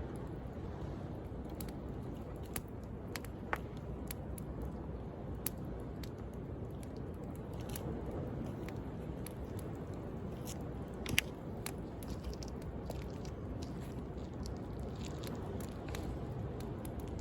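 Wood fire crackling with scattered sharp pops, the loudest about eleven seconds in, over a steady wash of sea waves.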